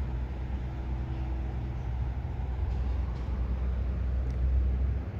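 Steady low background rumble, like distant road traffic, swelling slightly near the end.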